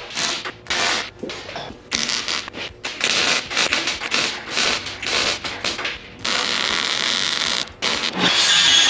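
Irregular scraping and rubbing strokes, giving way to a steady rasping noise about six seconds in.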